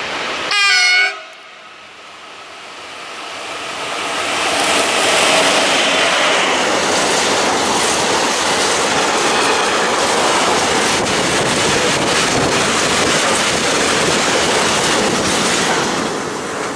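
Europorte E37501 locomotive sounds one short horn blast about half a second in. Then the locomotive and its train of gas tank wagons pass close by: a rising, then steady rumble with rapid clickety-clack of wheels over the rail joints, easing off near the end.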